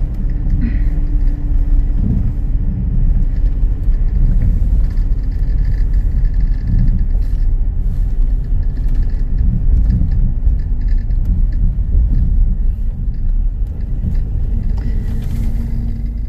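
Steady low rumble of a moving vehicle driving along a road, with a faint steady hum over it.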